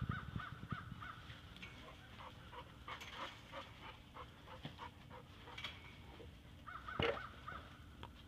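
Birds calling in two quick runs of short, repeated caw-like calls, one at the start and one about seven seconds in, with a thump at the very start and faint clicks and rustles between.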